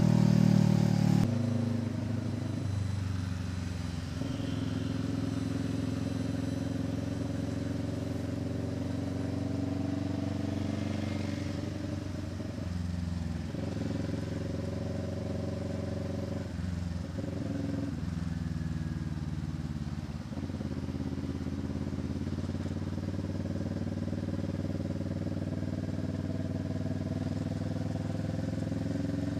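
Kawasaki Ninja 650 parallel-twin with an SC Project exhaust running under way. It is loudest for the first second or so, then settles to a steady pitch, with a few brief drops and recoveries in pitch midway.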